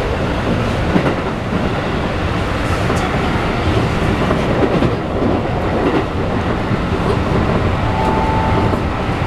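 Keikyu New 1000 series (1800 subseries) electric train with Toyo IGBT-VVVF inverters running, heard from inside the passenger car: a steady rolling noise of wheels on rail.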